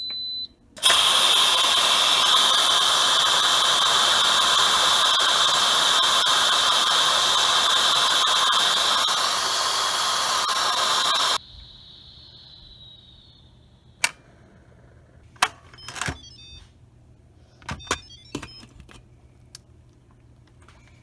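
Instant Pot electric pressure cooker beeping once, then its steam release valve venting in a loud, steady hiss for about ten seconds that cuts off suddenly: a quick release of the pressure after cooking. A few sharp clicks and knocks follow.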